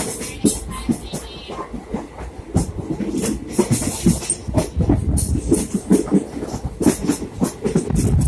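Passenger train running on the rails: a steady rumble with irregular wheel clatter and knocks over the rail joints.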